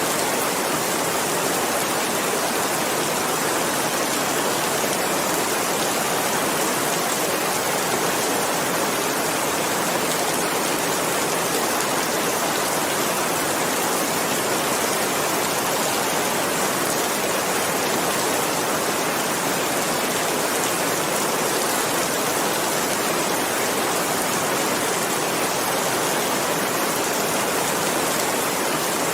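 Steady, even rain, a dense hiss of falling drops with no change in intensity.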